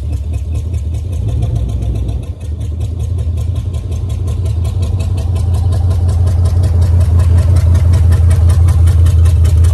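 1974 Ford Ranchero's 351 Cleveland V8 running at low speed with a steady pulsing exhaust, burning off old stale fuel and badly in need of a tune-up. It gets louder from about halfway through as the car rolls up close.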